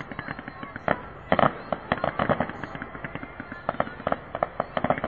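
Fireworks going off: rapid sharp bangs and crackles in clusters, the loudest about a second and a half in and again near the end.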